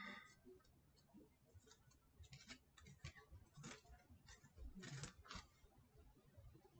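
Faint, irregular snips and clicks of scissors cutting out small puppet fingers, with a few louder cuts clustered about two, four and five seconds in.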